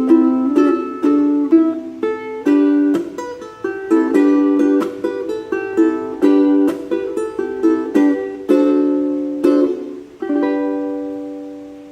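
Solo ukulele playing a melody over chords, each note and chord sharply plucked. It closes with a final chord about ten seconds in that is left to ring and fade out.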